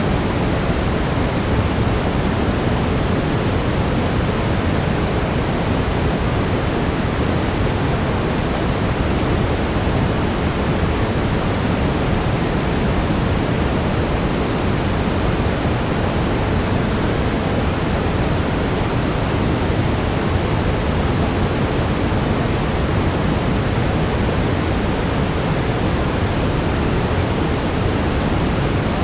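Steady brown noise: an even, deep hiss strongest in the low end, unchanging throughout, with a faint steady tone beneath it.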